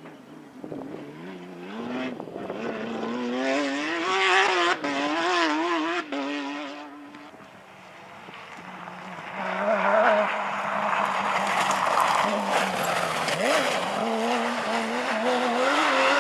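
Porsche rally car's flat-six engine revving hard, its pitch rising and wavering with quick throttle changes as it comes closer, then dropping away about eight seconds in. From about nine seconds in the engine is loud again, with tyre noise over it.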